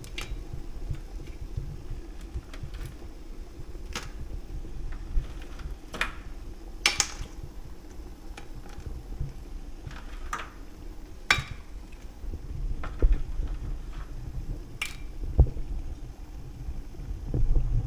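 Blue crabs' hard shells clicking and knocking against a metal steamer pot as they are stacked in, a sharp knock every second or few at uneven intervals, over a steady low hum.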